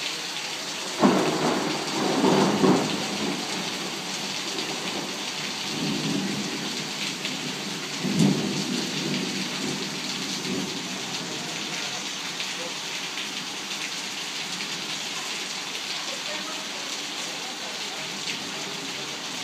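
Torrential rain pouring steadily during a thunderstorm. About a second in, a sharp thunderclap rumbles on for about two seconds. A fainter rumble follows a few seconds later, then a second clap a little before the middle rolls on for about three seconds.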